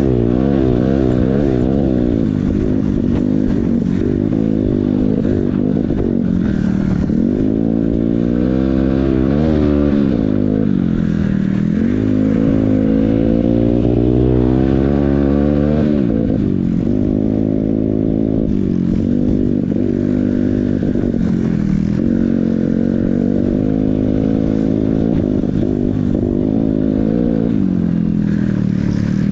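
Yamaha XTZ125's single-cylinder four-stroke engine running under load while riding, its pitch rising and falling again and again as the throttle opens and closes.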